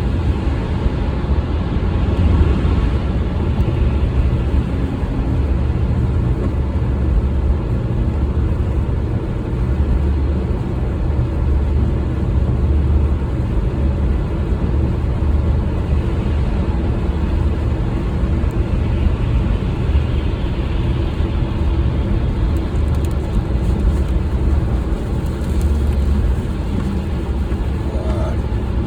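A car driving: a steady low rumble of engine and road noise that stays even throughout.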